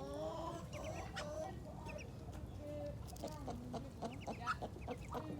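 Chickens clucking: several overlapping calls, with a quick run of short clucks in the second half.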